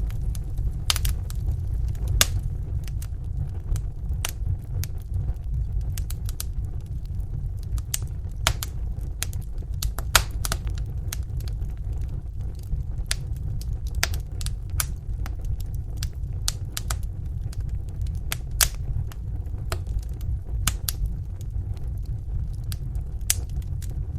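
Wood fire burning in a fireplace: a steady low rumble of flames with irregular sharp crackles and pops from the burning logs, a few of them louder.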